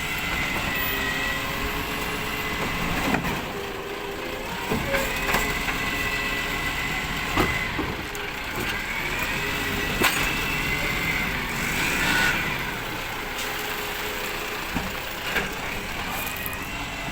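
Recycling collection truck running, with a whine that rises and falls several times and a few sharp knocks and clanks along the way.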